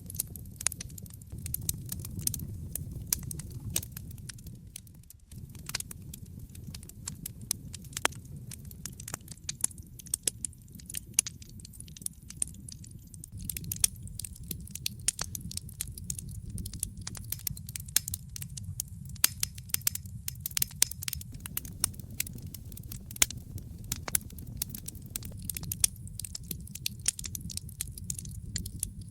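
Wood logs burning in a fireplace: many sharp crackles and pops over a steady low rumble of flames, which briefly drops out about five seconds in.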